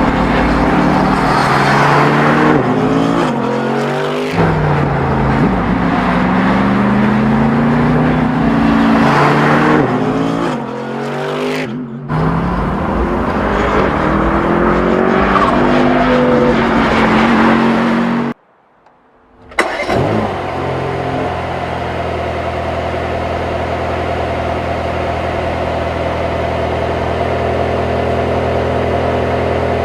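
Mercedes-AMG GT Black Series twin-turbo flat-plane V8 revving up and down repeatedly through the gears, pitch rising and falling. A sudden drop-out of about a second comes two-thirds of the way through. After it, the engine runs at a steady, unchanging pitch.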